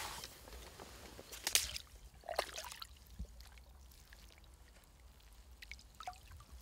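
Landing net being dipped into the water and a common carp slipping out of it: water splashing and trickling, with the sharpest splashes about one and a half and two and a half seconds in.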